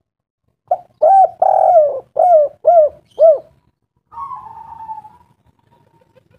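A bird calling: a quick series of six short notes, each rising and falling in pitch, then a longer, fainter note falling in pitch about four seconds in.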